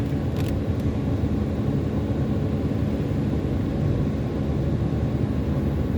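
Car driving at speed: a steady low rumble of road and engine noise, with a few light clicks about half a second in.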